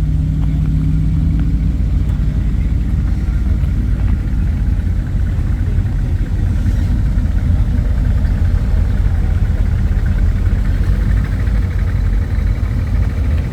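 Car engine idling close by, a steady low rumble.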